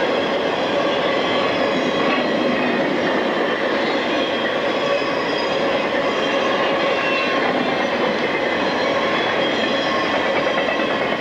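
A freight train of piggyback trailers on flat cars passing close at speed: a loud, steady rush of wheels and cars with thin high tones running through it.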